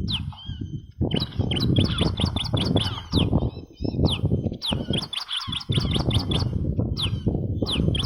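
Ciblek batik song used as a bird-trapping lure call: quick runs of short, sharp downward-sweeping chirps, broken by brief pauses, with a brief pause about five seconds in. A rough low rumbling noise runs underneath.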